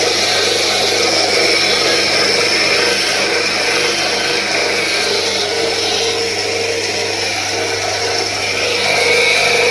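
Electric power tool running continuously, as used for carving stone, with a steady hum under a broad hiss; its pitch shifts slightly a couple of times.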